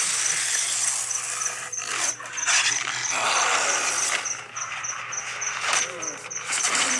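Werewolf growling and snarling during a fight, mixed with sharp hits and scuffles.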